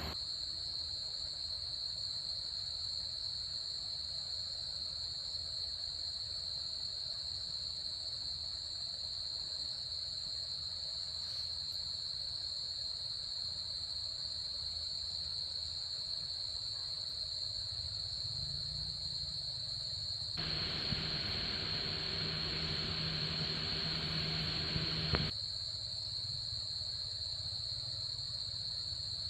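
Steady, high-pitched insect chorus over a low hum. About twenty seconds in, a broader rushing noise joins for about five seconds and then cuts off suddenly.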